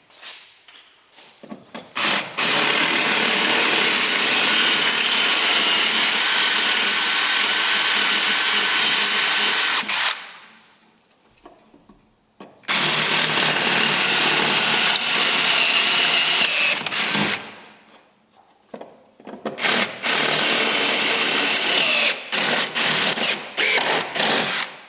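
Power drill running with a steady whine: two long runs of several seconds each, then a string of short bursts near the end.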